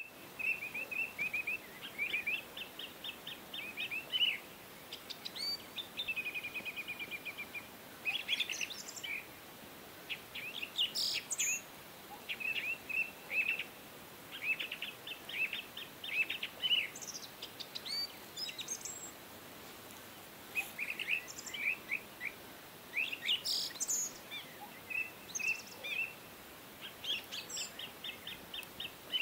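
Songbirds singing and chirping: quick trills and runs of short high notes, repeated every second or two, over a faint steady background hiss.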